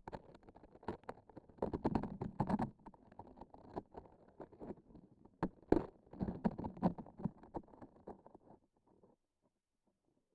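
Close-miked sticky textures: tacky crackling, clicking and squishing as transparent sticky objects are pressed and pulled apart, in two busier clusters. The sound thins out near the end and stops.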